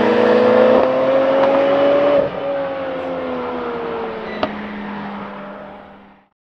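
A car's engine accelerating hard, its pitch climbing between gear changes, one just as it begins and another about two seconds in. It then falls away in pitch and level and fades out, with a single sharp click partway through the fade.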